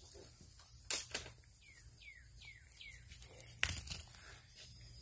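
A bird calls four short notes in a row, each sliding downward in pitch, over a faint steady hum. A few sharp clicks, the loudest sounds, come about a second in and again past three and a half seconds.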